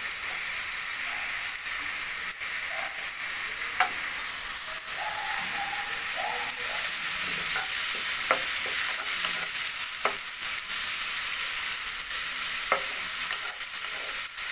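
Grated onion and tomato frying in oil in a nonstick wok: a steady sizzle while a wooden spatula stirs and scrapes them, knocking sharply against the pan a few times.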